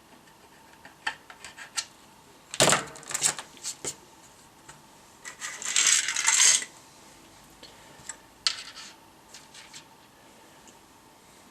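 Small hard objects clinking and clattering: a few light clicks, then a loud clatter and a longer rattle a few seconds later, with scattered ticks near the end.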